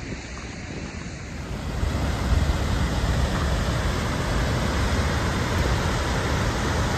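Steady rushing roar of a large waterfall, with wind buffeting the microphone. It grows louder about two seconds in.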